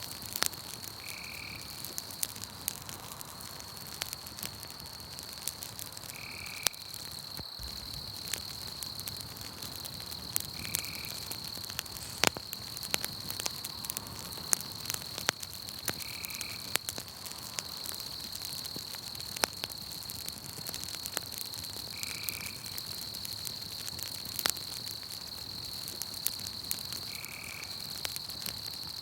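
Campfire crackling with scattered sharp pops, over a steady high-pitched insect trill. A short high call repeats about every five seconds.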